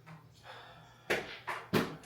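Three sharp knocks in quick succession, starting about a second in, over a low steady hum.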